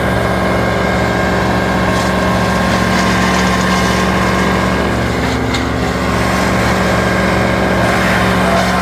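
A large engine of tree-service machinery running steadily at a constant speed. A couple of faint short clicks sound over it.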